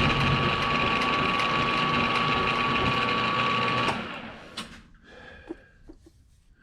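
A shop machine tool runs steadily with a constant whine, then is switched off about four seconds in and spins down. A few light clicks and knocks from handling follow.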